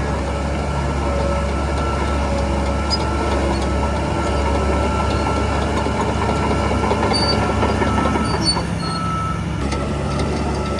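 Shantui DH17C3 bulldozer running steadily: a deep diesel engine hum under the clatter of its tracks, with a thin steady whine over it.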